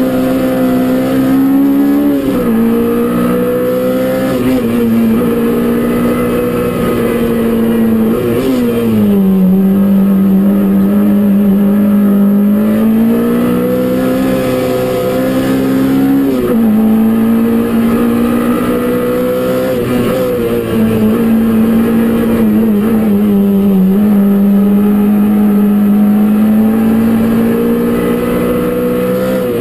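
Peugeot 205 Rallye Group A four-cylinder engine running hard under load, heard inside the stripped cabin. The revs drop sharply and climb again several times.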